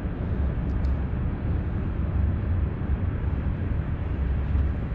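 Steady outdoor rumble, a loud, even noise heaviest in the low end, with no distinct events.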